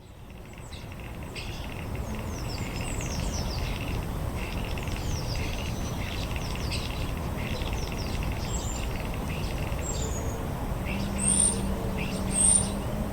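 Small birds chirping and twittering in quick, repeated falling notes, with two louder high-pitched calls near the end, over a steady low background rumble.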